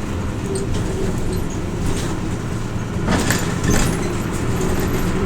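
Hino Rainbow RJ (P-RJ172BA) city bus under way, heard from inside the cabin: a steady diesel engine drone with road noise. There is a short clatter of rattles about three seconds in.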